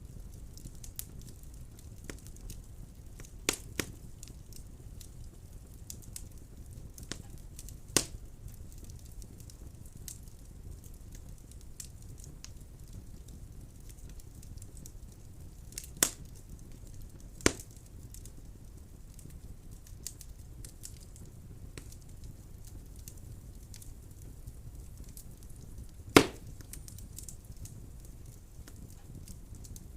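Wood fire burning in a fireplace: a steady low rumble of flames with scattered light crackles. About six sharp pops stand out, the loudest near the end.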